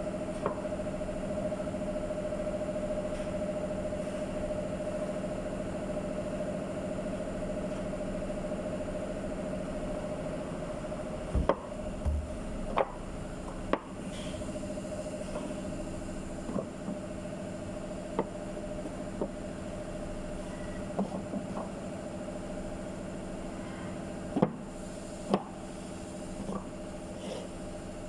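A steady machine hum holding one pitch, with scattered sharp knocks and clicks from a little under halfway through, the loudest near the end.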